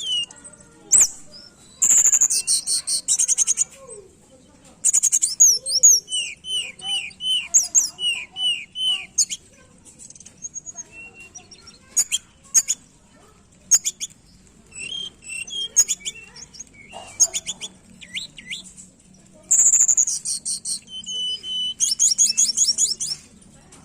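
Tledekan gunung songbird singing hard: a varied run of high whistled phrases and fast, rattling trills with short pauses in between, the loudest trills coming about two seconds in and again near the end.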